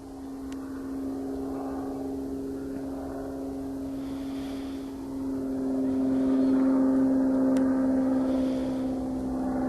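Engine drone of a small single-engine propeller plane, the sound of a Cessna, flying overhead at a steady pitch. It grows louder about halfway through as the plane comes closer.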